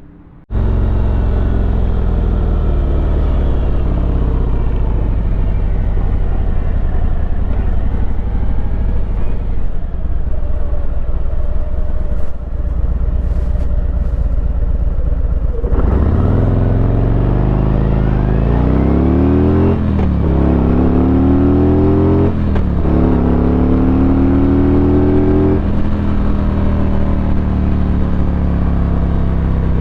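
Harley-Davidson Road Glide's V-twin engine running steadily for about fifteen seconds, then accelerating hard: the pitch climbs and drops back three times as it shifts up through the gears before holding steady near the end.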